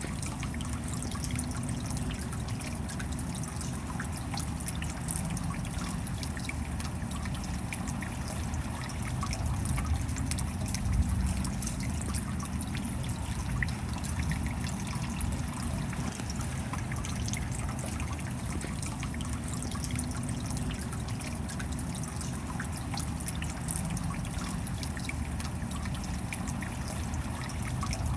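Steady rain with water trickling and many small drops ticking.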